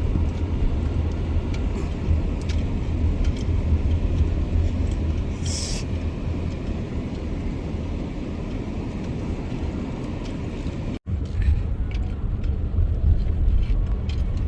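Steady road and engine noise heard from inside a moving car: a deep, even rumble with tyre hiss, a short hiss about five and a half seconds in, and a momentary dropout about eleven seconds in.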